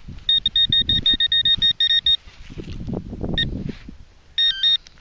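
Metal detector beeping on a buried metal target: a quick run of short, even beeps for about two seconds, a single beep, then a few more beeps near the end, some of them changing in pitch.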